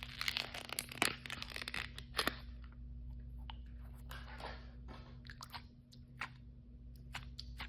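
Hands tearing open and crinkling plastic blind-bag packaging: dense crackly rustling for the first two and a half seconds, then scattered clicks and taps with a brief rustle about four seconds in.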